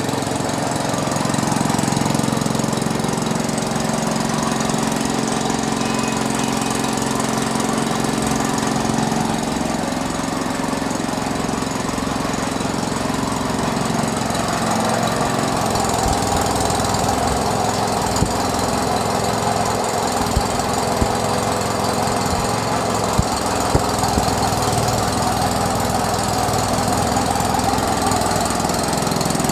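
Engine-driven sugarcane juice crushing machine running steadily. Its note shifts about halfway through, and a few sharp knocks come in the second half.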